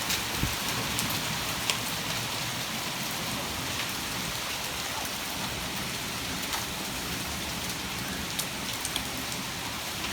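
Heavy thunderstorm rain falling steadily, with a few scattered sharp ticks standing out from the even hiss.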